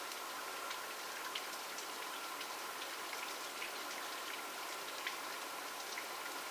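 Steady rain falling, an even hiss with many individual drops ticking irregularly on a surface.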